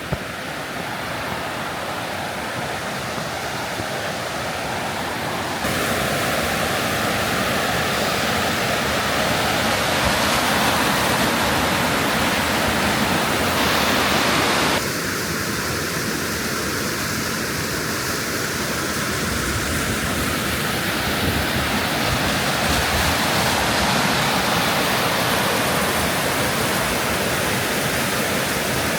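Waterfall rushing, a steady wash of falling water. It gets suddenly louder about six seconds in and drops back a little about halfway through.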